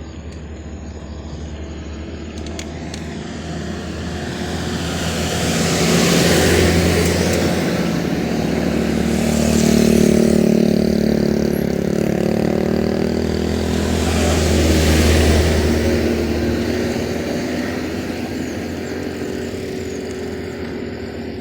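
Small petrol engine running and revving in surges, three times louder and higher, growing in level then fading away.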